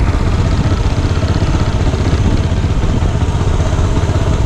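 Go-kart engine running steadily, heard up close from a camera on the kart.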